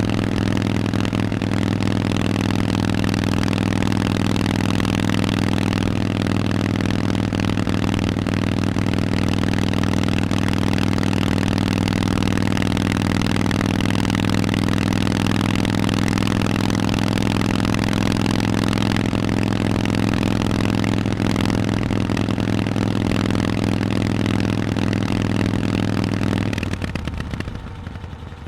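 Harley-Davidson Forty-Eight's 1200 cc V-twin running at a steady engine speed through Vance & Hines exhausts. The engine sound drops away sharply near the end.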